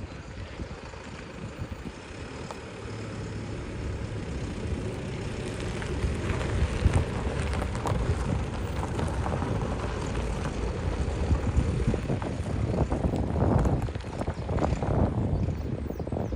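Tractor engines running as tractors drive past. The engine noise grows louder over the first several seconds, then holds steady.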